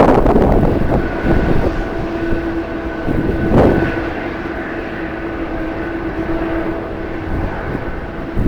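Jet airliner engines running with a steady whine over a rumble, buffeted by gusts of wind on the microphone, the loudest gust near the start and another about three and a half seconds in.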